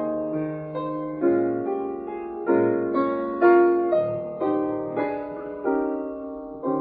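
Solo piano playing slow hymn chords, each chord struck and left to ring, roughly two a second.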